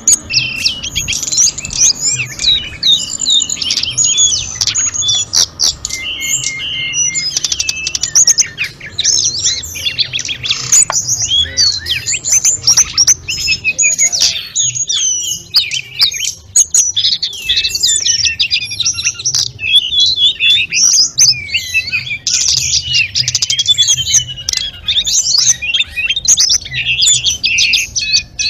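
A tledekan gunung (sulingan gunung) songbird singing without a break: a fast, dense stream of high chirps, trills and flute-like whistles that is full of mimicked phrases.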